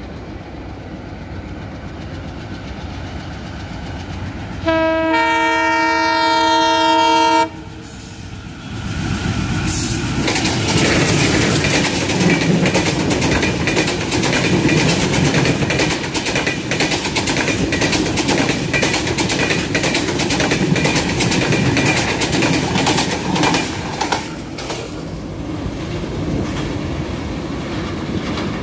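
An express passenger train approaches with a rising rumble. Its DL560C (WDM-3A) diesel-electric locomotive sounds its horn once for about three seconds. Then the locomotive passes, and the long rake of PT INKA coaches clatters rapidly over the rail joints for about fifteen seconds before fading away.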